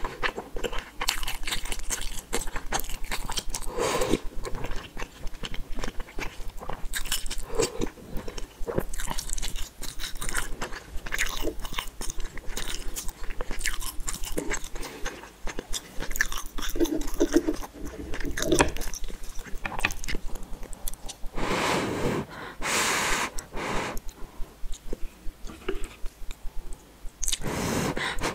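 Close-miked eating sounds of someone biting and chewing noodles and fishballs, in many short, irregular bursts. There are two longer, louder stretches, one about three-quarters of the way through and one near the end.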